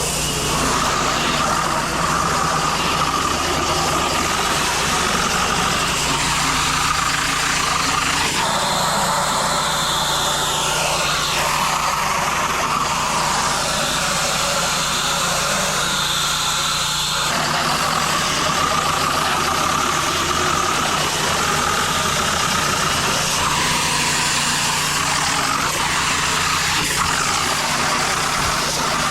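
Gas-engine pressure washer running steadily while its wand sprays water, a continuous hiss over the engine. The spray sound changes between about 8 and 17 seconds in.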